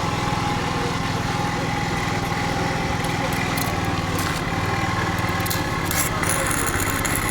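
An engine running steadily at idle, with a few light clicks over it in the second half.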